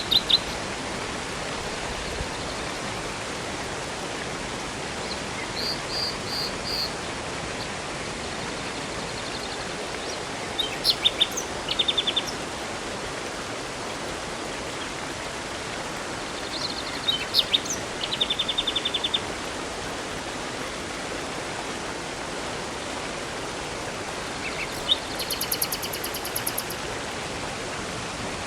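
Steady rushing water of a river and waterfall, with songbirds breaking in about five times with short phrases of high, rapid chirps and trills.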